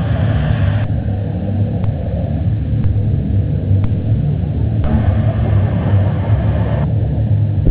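Jet engine on a quad bike running with a steady, loud rumble.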